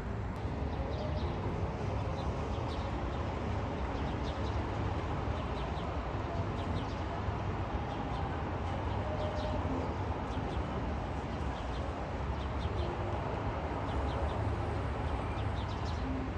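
Small birds chirping in short runs of high notes every second or two, over a steady low outdoor rumble.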